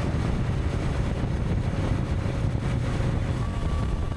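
Wind buffeting the microphone of a motorcycle on the move, a steady low rumble with no breaks.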